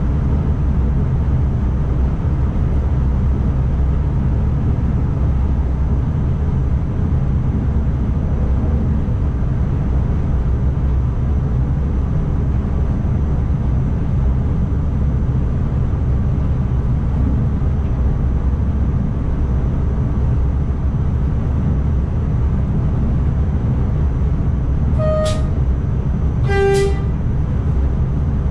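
ICMm electric multiple unit running along the track, heard from the driver's cab as a steady low rumble. Near the end a train horn sounds two short notes, a higher one and then a lower one.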